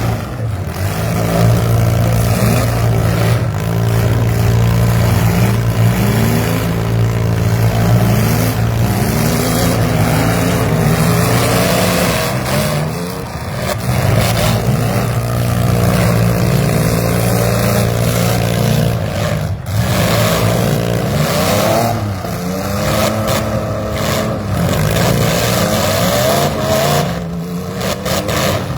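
Several demolition-derby vans, SUVs and mini trucks with their engines revving up and down over and over, overlapping one another.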